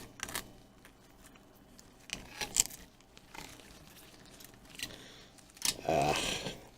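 Small clicks and taps of tablet parts being handled, then about a second of crinkling plastic near the end, as the plastic protective film is handled.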